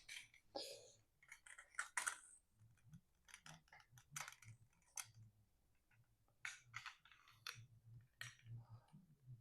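Near silence with faint, scattered clicks and taps, several a second in places, like small objects being handled.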